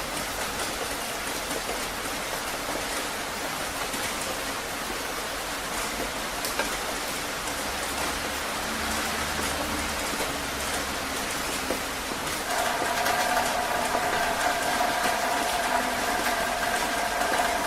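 Heavy rain falling steadily. About two-thirds of the way in, a steady mechanical hum with several held tones starts up over the rain and stays.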